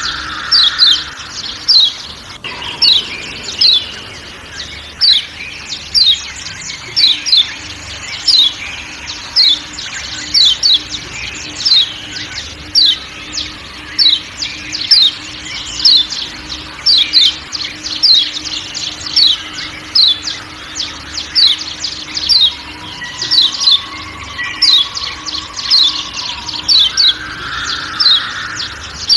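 Yellow white-eye (kecial kuning, a Zosterops) repeating sharp 'ciak ciak' calls: short, steeply falling high notes, often in pairs, about one to two a second, over a faint background of forest sounds.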